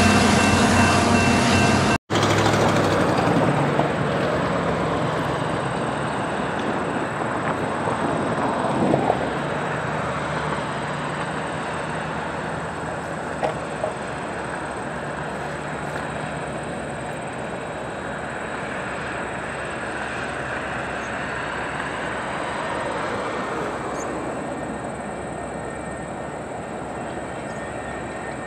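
A passing diesel freight train, its horn sounding as a steady chord, cut off about two seconds in. Then the steady rumble of distant diesel freight locomotives approaching.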